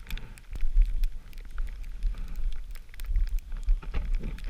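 Blizzard wind buffeting the microphone in rumbling gusts, with scattered small crackling ticks.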